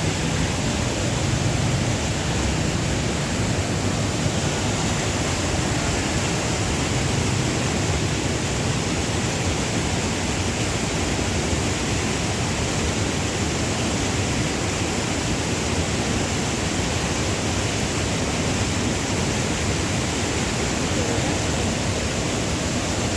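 Waterfall, a steady rush of falling water that does not change.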